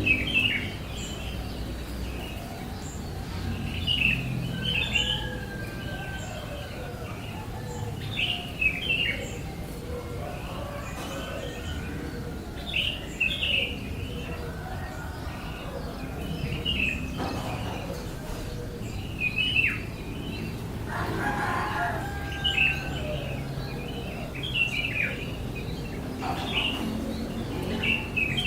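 Bird chirping repeatedly: clusters of short, high chirps sliding downward, coming every second or two, over a low steady hum.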